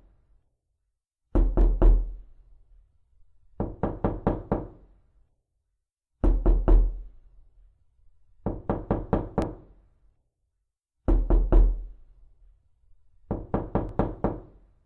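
Heavy banging on the outside of a house, taken by the listener for someone pounding on a window. It comes in six bursts of four to six rapid, hard blows, each with a deep thud, spaced a couple of seconds apart.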